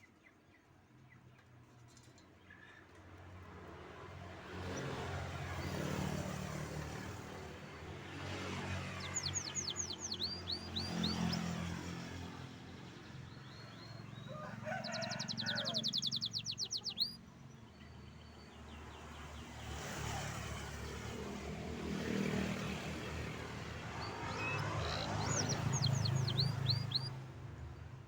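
Domestic canary singing: short high chirping phrases, a rapid trill near the middle, then more chirps near the end. Under the song, road traffic swells and fades several times as vehicles pass.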